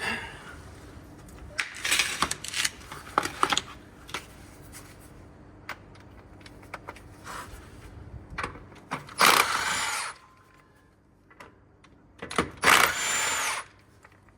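A power wrench runs in two bursts of about a second each, backing out the bolts of a heavy-truck clutch, after metal tool clanks and knocks.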